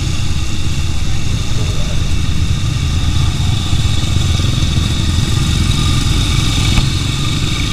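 Motorcycle engine idling steadily, with a faint high-pitched whine held over it.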